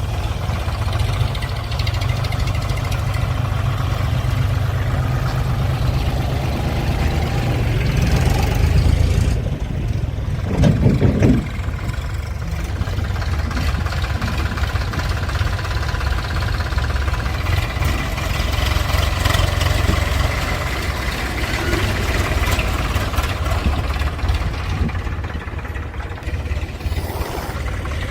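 Diesel engine of a tractor or backhoe loader running steadily with a low rumble, with a brief louder burst about a third of the way in.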